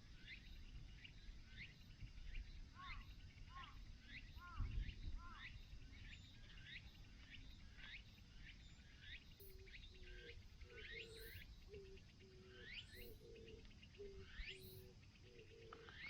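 Faint wild birdsong: several birds chirping in quick repeated notes, with a lower call joining in from about ten seconds in and repeating in short notes.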